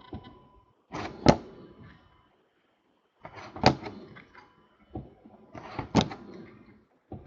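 Trading cards being handled and set down: three sharp taps, about a second, three and a half and six seconds in, each with a brief rustle of card stock.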